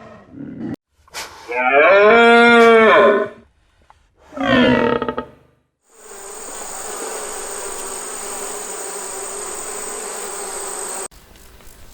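A cow mooing twice, first a long rising-and-falling call, then a shorter call falling in pitch. After the moos comes about five seconds of steady insect buzzing with a high whine, cut off suddenly near the end.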